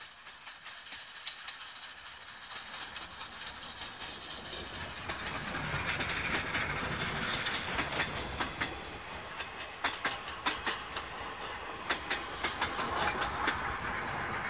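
Steam-hauled passenger train passing close by, with a steam locomotive at each end. Its noise grows louder as it approaches, then the wheels clack repeatedly over the rail joints as the coaches roll past.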